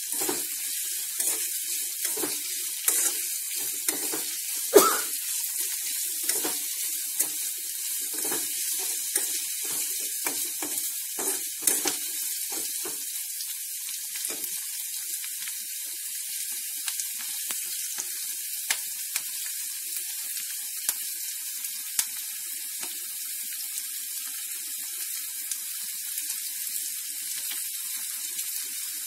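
Chopped onions sizzling in hot oil in a metal kadhai, stirred with a spatula that scrapes and clicks against the pan in quick strokes for the first dozen seconds. After that the steady sizzle goes on with only an occasional click.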